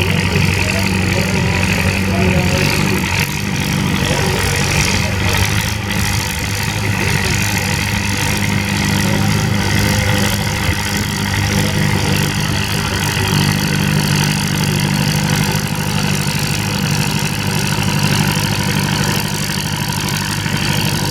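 Antique farm tractor engine running steadily at an even speed.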